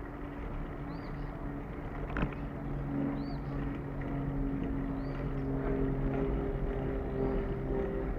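A steady engine drone that climbs slightly in pitch over the second half, over low wind and rolling rumble. A bird gives a short chirp about every second and a half, and there is one sharp click about two seconds in.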